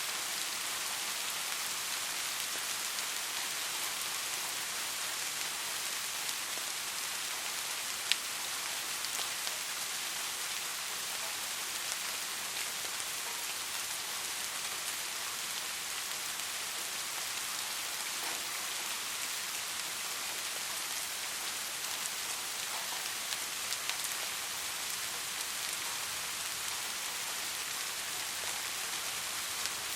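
Steady rain falling on a surface, an even hiss with scattered drop ticks, one a little sharper about 8 seconds in.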